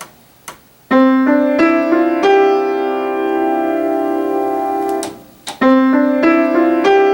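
Piano playing a five-note figure twice, staccato with the sustain pedal down, so the five notes, struck one after another about a third of a second apart, ring on and blend into a sustained chord. One or two of the notes are brought out louder while still blending. The ringing chord is cut off suddenly about five seconds in, and the figure starts again.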